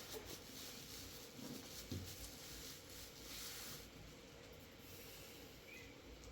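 Quiet room sound with a faint steady hiss, a single soft knock about two seconds in, and a brief swell of hiss a little past the middle.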